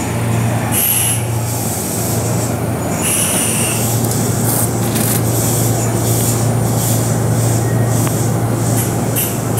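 Kintetsu limited express train standing at the platform, its onboard equipment giving a steady low hum over general station noise.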